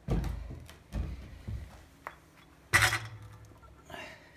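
Knocks and thumps of metal motorcycle exhaust pipes being handled and set down, with one louder clatter nearly three seconds in.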